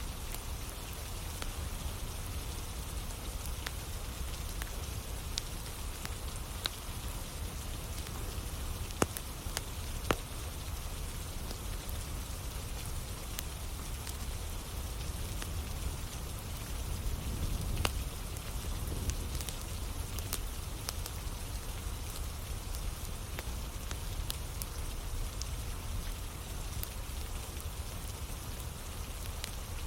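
Steady rain with a campfire burning: wood crackling in scattered sharp pops over the even hiss of the rain, with a couple of louder pops about a third of the way in.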